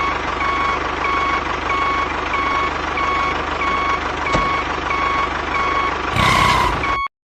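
Vehicle reversing alarm beeping steadily, a short tone about every half second, over a continuous motor hum. The sound cuts off abruptly about seven seconds in.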